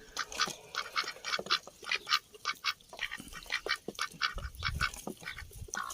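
Domestic ducks quacking in a rapid run of short calls, several a second.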